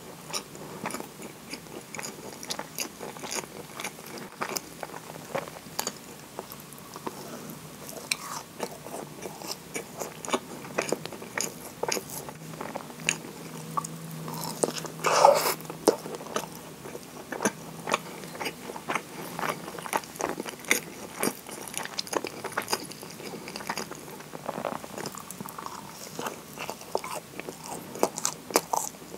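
Close-miked biting and chewing of a moist kinako (soybean-flour) scone dipped in maple syrup: a steady run of small crackly bites and chews, with one louder bite about halfway through.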